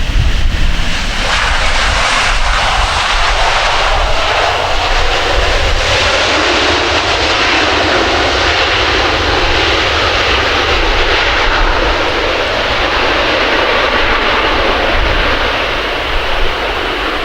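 Airliner's engines running loud and steady as it lands, a broad rush of engine noise that swells about a second in and eases slightly near the end.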